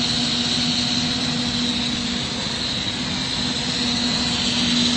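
Steady noise of a lampworking glass shop: a constant hiss from the bench torches, with a steady low hum beneath it from running machinery.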